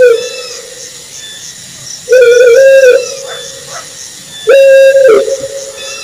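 Owl hooting: a level, flat-pitched hoot just under a second long, repeated about every two and a half seconds, over a faint high chirping in the background.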